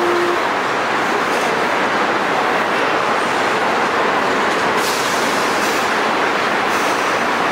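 A train rolling past with a loud, steady rushing noise, with a single steady tone that cuts off within the first half-second.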